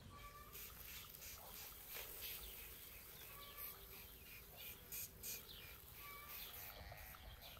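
Faint birds calling in short, repeated chirps, with a few sharp crackles, the loudest two about five seconds in.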